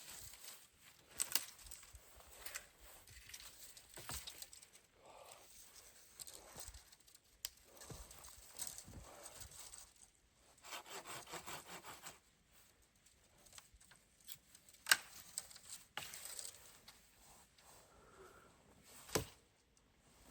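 Wood being worked by hand: a short run of quick, even saw strokes and several sharp cracks of wood, one loud crack near the end.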